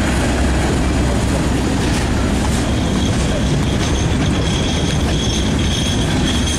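Freight train's hopper cars rolling past close by: a steady rumble and rattle of steel wheels on the rails. A high, steady wheel squeal grows louder about four seconds in.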